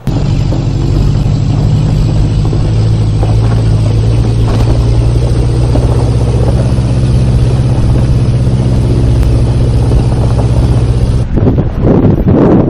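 4x4 vehicle's engine running steadily under load while driving, a loud low drone whose pitch rises slowly. About eleven seconds in it gives way to rough, irregular buffeting noise.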